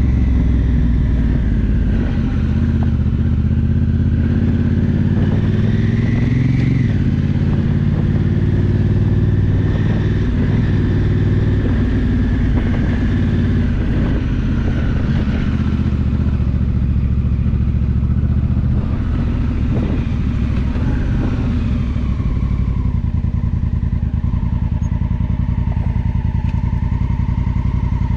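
Honda Africa Twin's parallel-twin engine running under way on a dirt track, with wind and road noise. The engine pitch climbs, then drops suddenly about seven seconds in as the dual-clutch gearbox shifts up. It then rises and falls with the throttle before settling to a steady cruise, with a few knocks from the rough surface.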